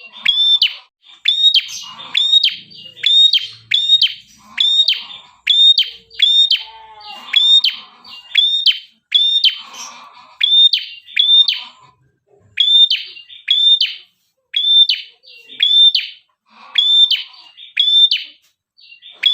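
Red-headed prenjak (ashy tailorbird) singing without a break: a fast run of sharp, down-slurred notes repeated about twice a second, with one short pause partway through.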